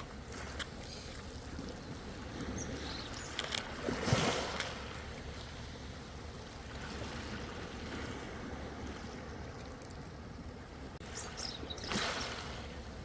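Ocean waves washing in: a steady wash of water that swells twice, about four seconds in and again near the end, with small splashes and clicks in between.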